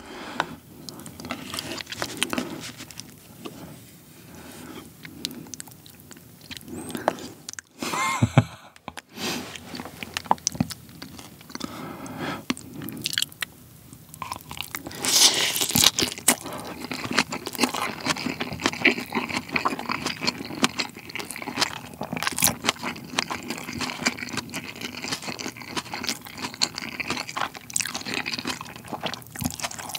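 Close-miked chewing of a mouthful of beef tartare bibimbap, raw beef yukhoe with crisp shredded vegetables, with many small wet crunches. The chewing grows louder about halfway through.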